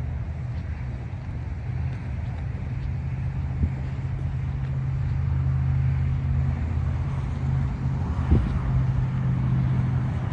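TYM 254 compact tractor's diesel engine running steadily, with two brief knocks, the louder one near the end.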